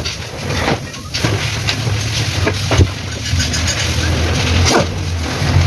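Mitsubishi Pajero's 4M40 four-cylinder diesel engine running steadily at idle, with a few separate sharp knocks on top.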